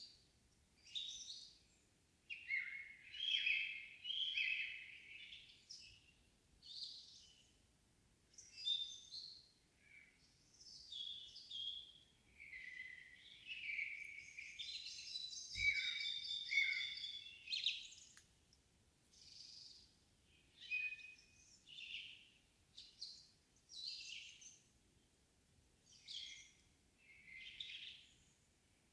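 Several songbirds singing in an evening summer forest. Their short, high phrases follow one another every second or two and overlap in places, with a longer, denser stretch of song about halfway through.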